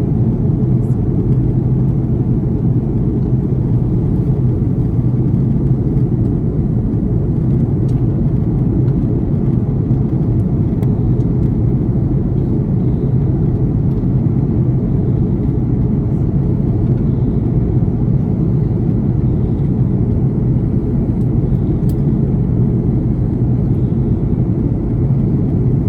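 Steady low rumble of engine and airflow noise heard inside an Airbus A330 airliner's cabin, with a faint hiss above it.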